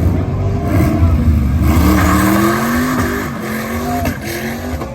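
Cars accelerating hard, several engines at once, their notes rising as they rev up and pull away, with a loud rasping stretch in the middle.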